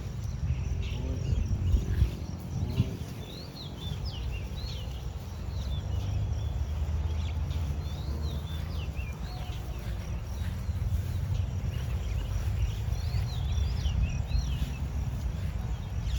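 Wind buffeting the microphone as a low, uneven rumble that swells and eases. Over it, birds give many short chirps.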